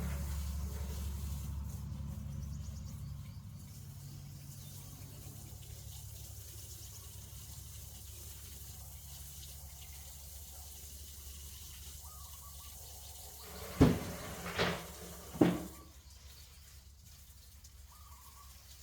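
Water running faintly and steadily, as from a tap, with three sharp loud knocks about two-thirds of the way through. A low hum fades out in the first few seconds.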